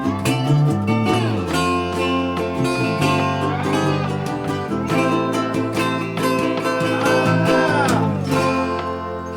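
Instrumental music on plucked strings: quick picked and strummed notes with several sliding notes, getting a little quieter near the end.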